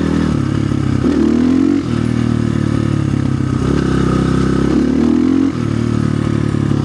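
2025 Orion RXB250XL dirt bike's 250cc engine running under load while riding. Its revs climb twice and drop suddenly each time, about two seconds in and again about five and a half seconds in.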